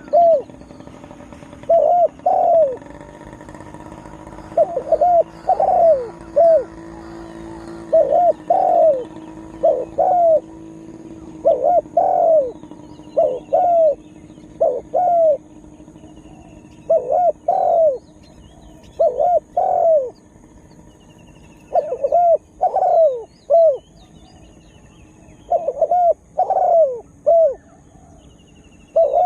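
Spotted dove cooing over and over, in short phrases of two or three low coos repeated about every two seconds. Small birds chirp faintly behind it, with a steady high-pitched drone.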